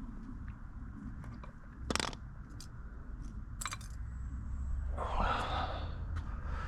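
Metal hand tools clinking and scraping while being rummaged through, with two sharp metallic clinks, the first about two seconds in, and a rustling scrape near the end.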